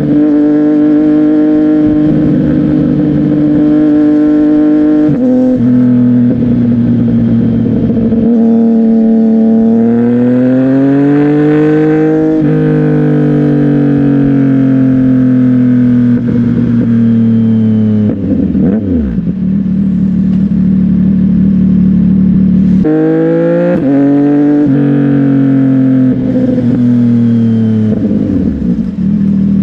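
CFMOTO 675NK's three-cylinder engine through a Burnout titanium exhaust while riding. The pitch holds steady, drops suddenly about five seconds in, climbs during acceleration, then slowly falls as the throttle eases. It drops sharply again past the middle, jumps back up a few seconds later and falls once more.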